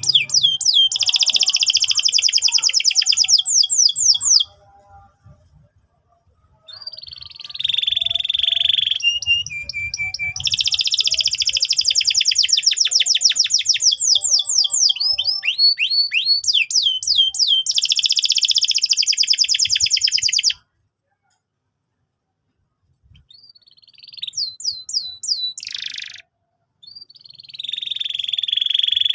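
Domestic canary singing vigorously in long, fast trills and rolls of rapidly repeated high notes. The song breaks off twice for about two seconds, then resumes with shorter phrases near the end.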